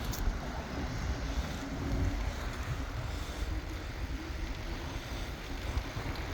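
Steady low rumble of wind on the microphone and tyre noise from a mountain bike rolling along the road.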